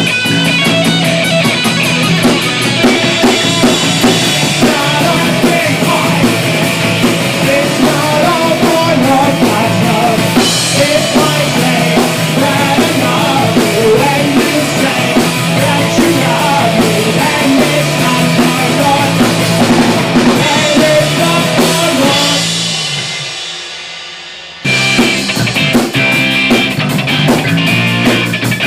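Loud rock music with a drum kit and guitar. It fades out about 22 seconds in, and another loud rock track starts abruptly about two and a half seconds later.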